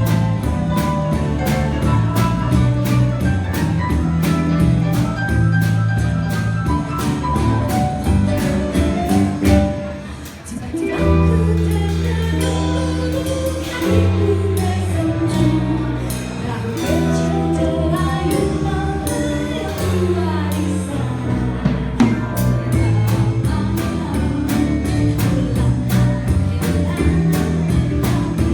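Live pop band of drums, bass, guitar and piano playing, with a woman singing. About ten seconds in the music briefly drops back, the drums fall away for a sustained bass-and-keys passage, and the full drum beat returns a little after twenty seconds.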